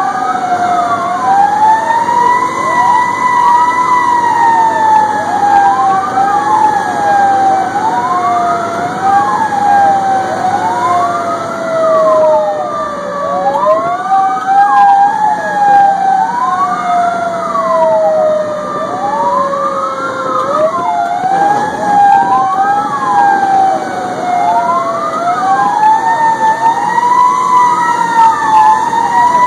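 Fire engine siren sounding continuously, with two tones at once: a slow wail that climbs quickly and then sinks over several seconds, and a faster sweep rising and falling about every two seconds. A low engine rumble runs underneath.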